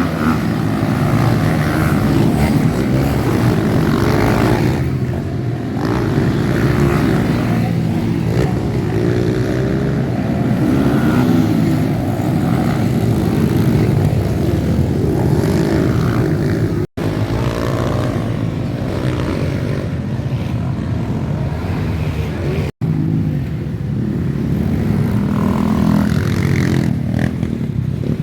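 Motocross dirt bike engines running and revving, their pitch rising and falling. The sound breaks off abruptly twice for an instant.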